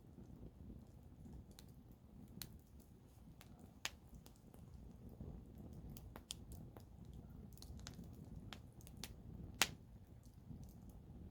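Wood campfire crackling: scattered sharp pops at irregular intervals, the loudest about three-quarters of the way through, over a low steady rumble.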